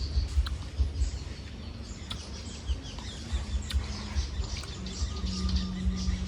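Small birds chirping, with many short high calls through the middle, over a low uneven rumble and bumps. A steady low hum starts near the end.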